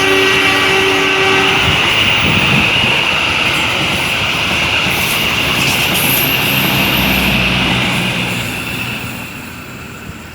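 Mutiara Timur passenger train's stainless steel coaches rolling past, with steady wheel-on-rail noise that fades away near the end. A train horn sounds at the start and stops about a second and a half in.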